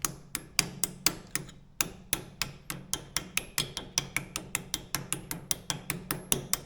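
Hand hammer striking a steel drift in quick, even taps, about four a second, driving a part into a skid steer's quick-attach carriage.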